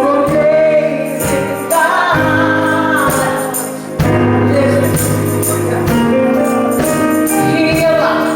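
Gospel praise music: voices singing over a band, with a tambourine jingling along.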